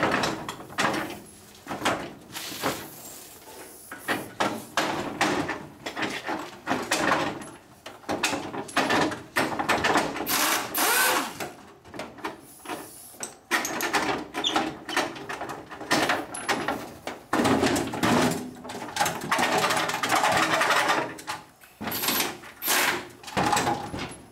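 Hand and power tools working on an old pickup's body: repeated knocks and clanks on metal, with a longer stretch of steadier tool noise past the middle.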